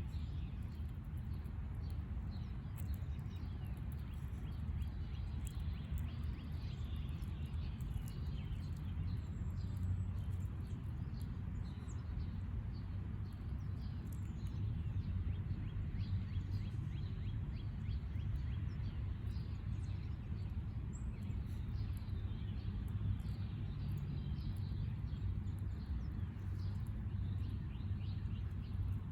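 Backyard ambience: small birds chirping faintly and often, over a steady low rumble.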